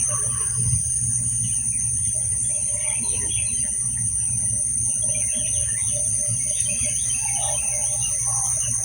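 Evening outdoor chorus: insects giving a steady high-pitched drone, with scattered bird chirps over it and a low steady hum underneath.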